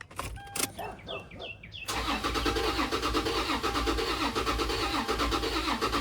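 Toyota 4Runner's engine being cranked over by the starter, an even pulsing churn from about two seconds in that does not catch and run: a crank-no-start, the cranking sounding wrong to the mechanic.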